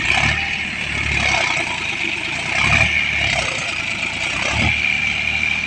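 Tractor engine running and labouring, its low note swelling and easing every second or so, as the tractor tries and fails to drive out of deep paddy-field mud. A steady high hiss runs behind it.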